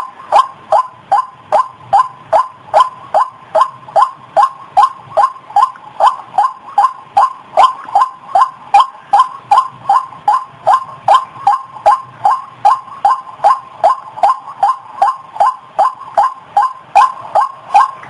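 White-breasted waterhen (ruak-ruak) calling: a steady, unbroken series of short, falling notes, about two and a half a second.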